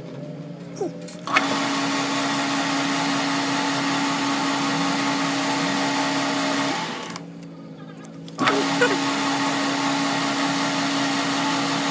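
An electric power tool running with a steady whine and hiss. It starts suddenly about a second in, winds down after about five seconds, and starts again a second and a half later.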